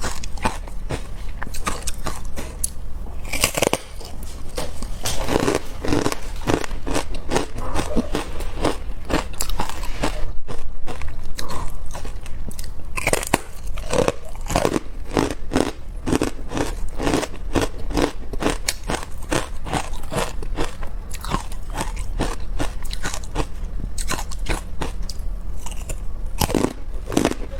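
Carbonated ice being bitten and chewed: a dense, continuous run of sharp cracks and crunches.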